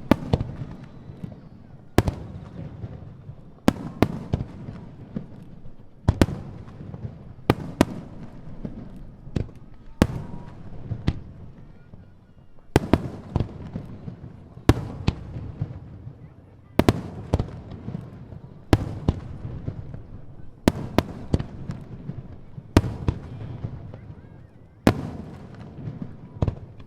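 Wide starmine fireworks barrage: sharp shell bursts about every two seconds, often in quick pairs or clusters, with a low rumble of echoes and launches between them.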